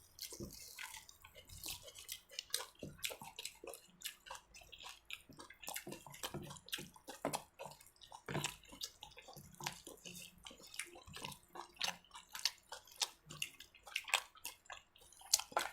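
Sounds of people eating: irregular small clicks, taps and chewing noises from a meal at the table.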